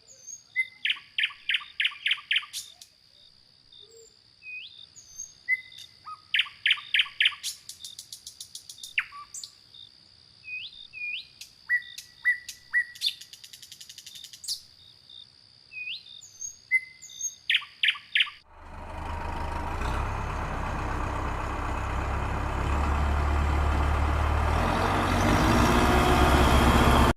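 Birds chirping in quick repeated calls over a steady high tone. About 18 seconds in this gives way to a loud, steady low noise that slowly grows louder.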